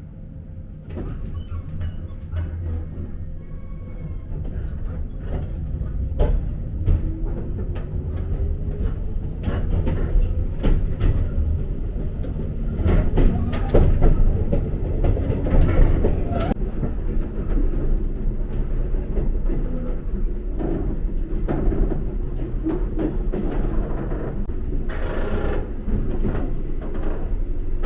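Electric train of the Jōshin Dentetsu Line pulling away and gathering speed, with a rising motor whine and repeated clicks and knocks of the wheels over rail joints, growing louder over the first half.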